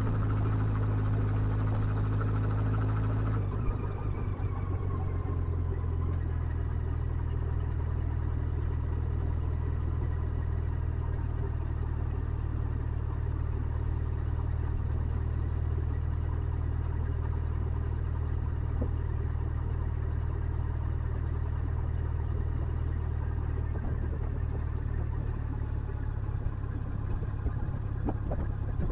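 Motorcycle engine running at a steady low speed; about three and a half seconds in its note shifts and a brief falling whine is heard, then it runs evenly on.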